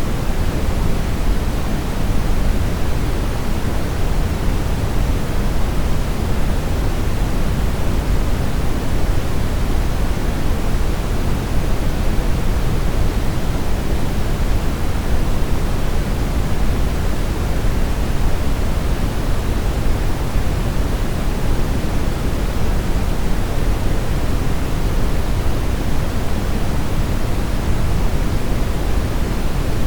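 Steady brown noise: a constant deep rushing hiss, strongest in the bass and tapering off toward the highs, with no changes.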